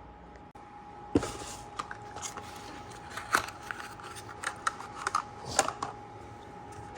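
Irregular light clicks, taps and clatters of hand tools and small parts being handled during engine work, with a sharper knock about a second in, over a faint steady whine.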